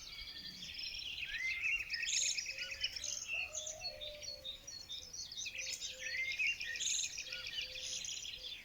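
Songbirds chirping and trilling in a dense, overlapping chorus of rapid note trains and short rising whistles.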